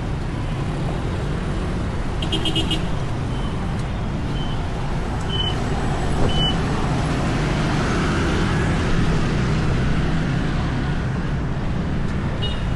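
Road traffic running steadily, with a cluster of short high beeps a couple of seconds in, a few single beeps after it, and another cluster near the end.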